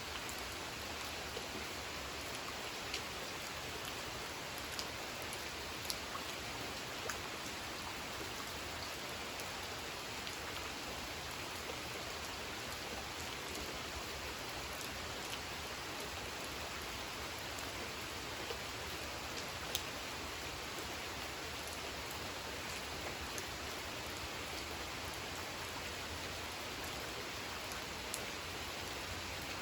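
Steady rain falling on a pond, an even hiss of many drops with a few louder single drop taps now and then.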